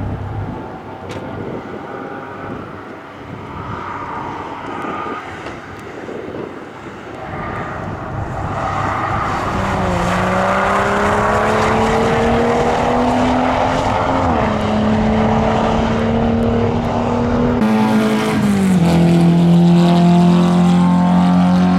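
A track car's engine, quiet at first, then growing loud over several seconds as the car comes near and runs hard. Its note drops in two steps in the second half.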